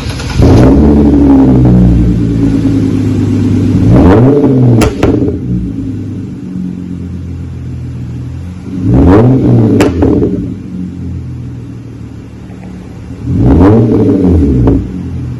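2013 Hyundai Genesis Coupe's 3.8-litre V6 revved four times and settling back to idle between, through a muffler-deleted split Y-pipe exhaust with a deep rumble. A few sharp pops come as the revs drop, which the mechanic puts down to the exhaust being cold and having too little back pressure.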